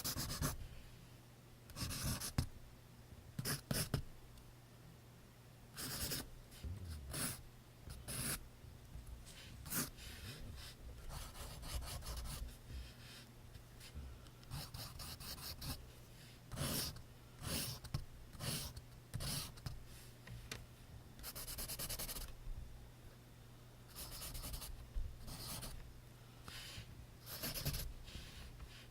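Pencil writing on paper: irregular scratchy strokes, some short and some drawn out for about a second, with brief pauses between them.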